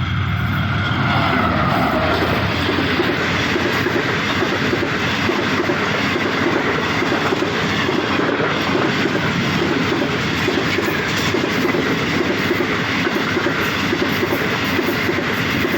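Express passenger train passing close by at speed: a loud, steady rumble and rattle of the coaches' wheels running over the rails.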